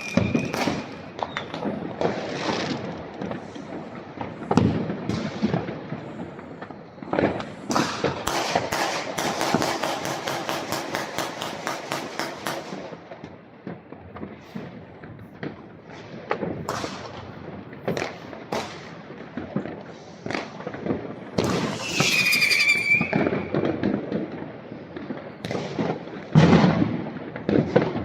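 New Year's Eve fireworks and firecrackers going off: scattered bangs and booms, a rapid string of cracks lasting about four seconds, and whistling rockets near the start and about two-thirds of the way through.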